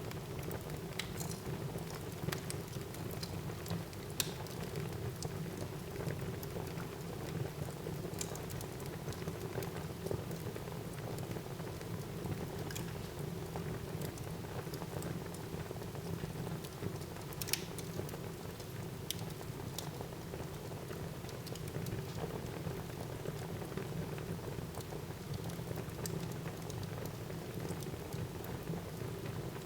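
Wood fire burning in a fireplace: a steady low rush of flame with scattered crackles and pops, one sharper pop a little past halfway.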